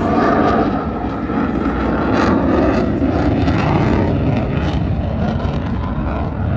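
Aircraft engine noise, loud and steady throughout.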